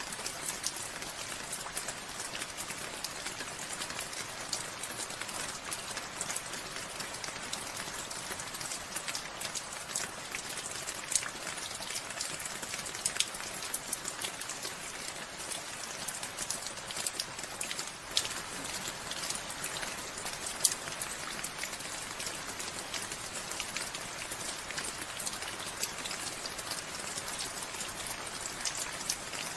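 Steady rain falling, a constant patter with many distinct drop hits, a few louder ones standing out now and then.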